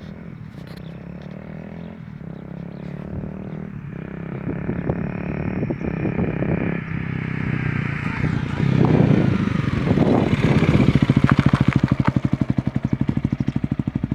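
Honda Rebel 250's single-cylinder engine running through an aftermarket slip-on exhaust, growing steadily louder, with a rev about two thirds of the way through and a fast, even exhaust pulse near the end.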